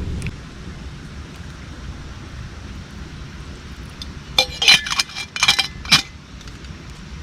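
A quick run of sharp clinks from cookware or utensils being handled, with a ringing after several of them, about four seconds in and lasting a second and a half. A steady rushing noise runs underneath.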